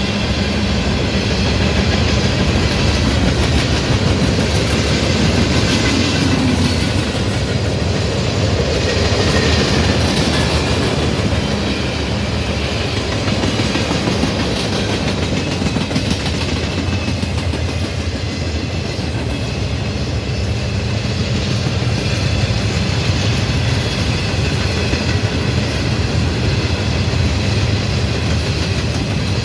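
Train rolling past at close range, its cars' wheels clacking steadily over the rail joints, with a continuous rumble and a low steady hum under it.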